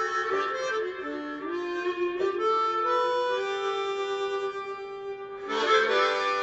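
Harmonica playing a blues melody: a run of short changing notes, then one long held note, and a louder full chord near the end.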